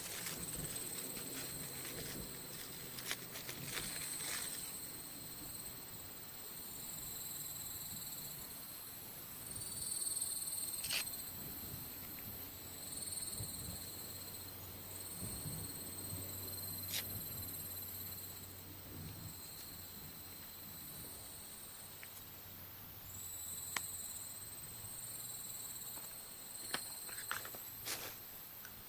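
Insects chirping steadily in the background, a high continuous shrill, with a few scattered sharp clicks and knocks.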